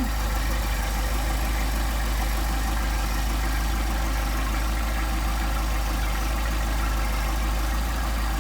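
Mercedes-Benz 190SL's four-cylinder engine on twin Solex carburetors idling steadily, still cold and warming up after starting from sitting overnight.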